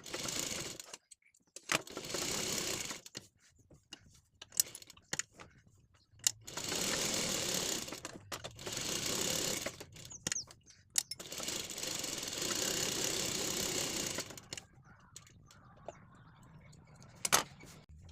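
Sewing machine stitching in short runs of one to four seconds, stopping and starting several times, with a few sharp clicks in the pauses.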